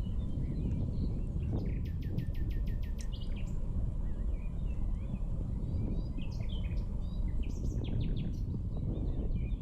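Songbirds chirping in short scattered calls, with a rapid run of ticks, about nine a second, for about a second near the two-second mark, over a steady low rumble.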